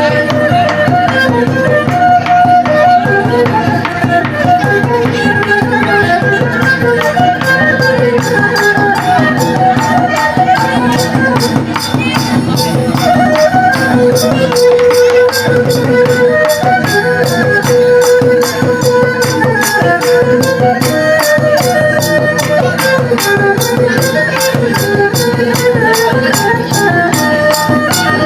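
Khmer Sadam dance music: traditional folk music with a fast, steady beat of drums and hand percussion under melody instruments.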